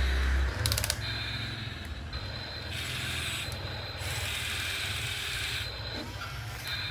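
Excavator working: a mechanical whir that starts and stops in spurts of about a second over a steady low rumble, with a short rapid clatter about a second in.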